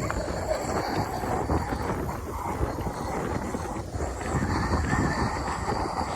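Wind buffeting the microphone: a steady, rumbling rush with no clear pattern, and faint high steady tones in the background.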